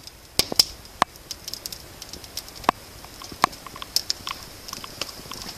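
Wood fire crackling in a fireplace just lit, with irregular sharp pops over a steady hiss.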